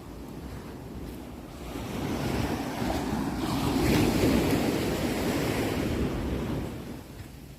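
Sea waves rolling in and breaking on the shore. One wave builds about two seconds in, crests around the middle and washes back down near the end.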